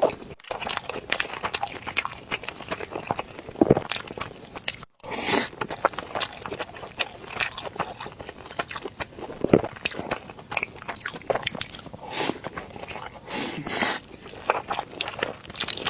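Close-miked eating: crunchy bites and chewing of rice with slightly crispy fried green peppers and shredded pork, in many irregular short crunches and mouth sounds.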